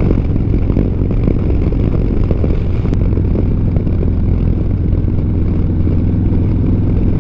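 Motorcycle engine running steadily at cruising speed, with wind and road noise on a helmet microphone.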